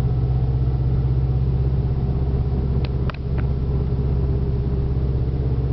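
Subaru WRX STI's turbocharged flat-four engine with a catless exhaust, running at low speed with a steady, deep drone. There are a couple of short clicks and a brief dip in level about three seconds in.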